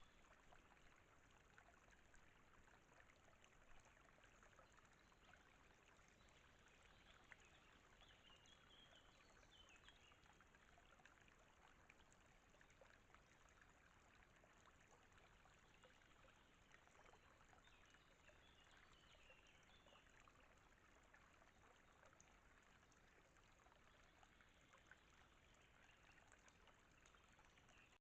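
Near silence: the faint steady hiss of a trail camera's microphone, with a few faint high chirps twice in the middle.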